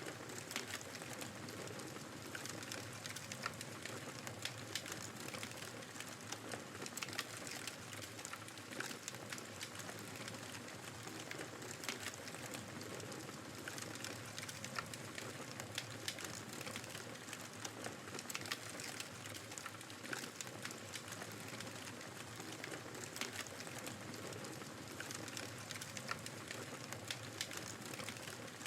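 Wood fire crackling in a fireplace, with many small irregular pops, over the steady rush of blizzard wind.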